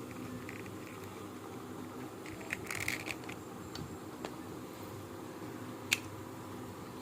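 Small clicks and scrapes of a wall clock movement being taken apart by hand: a quick cluster of clicks a little before the middle, a couple of single ticks, and one sharp click near the end.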